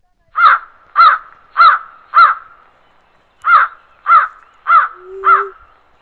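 A bird calling loudly: eight short, harsh calls, each rising then falling in pitch, in two runs of four about half a second apart with a pause of a second between the runs.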